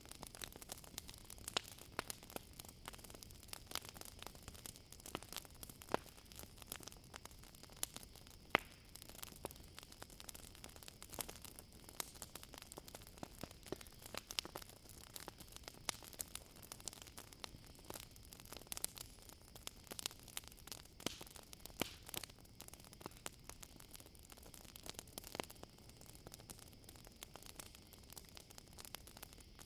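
Campfire crackling, with frequent small sharp pops and snaps over a soft hiss, and a faint steady high chirring of crickets behind it.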